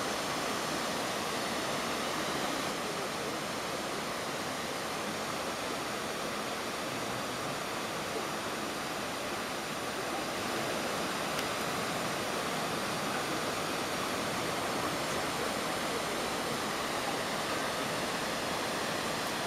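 Nachi Falls, a tall waterfall, giving a steady, unbroken rushing roar of falling water.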